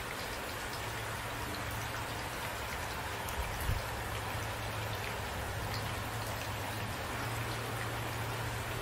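Steady rain falling, heard as an even hiss with a low rumble underneath and two brief low thumps a little before the middle.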